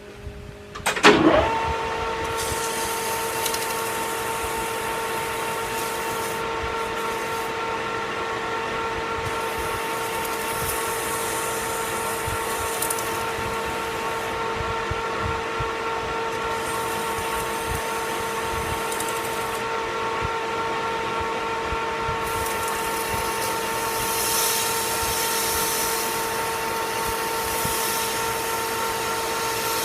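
Metal lathe motor starting about a second in, spinning up with a rising whine, then running steadily. Stretches of hiss come and go over it as the spinning 1018 cold-rolled steel bend die is deburred by sanding.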